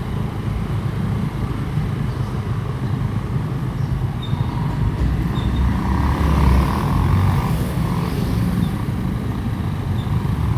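Motorcycle being ridden along a road, its engine running steadily under a dense low rumble of wind and road noise.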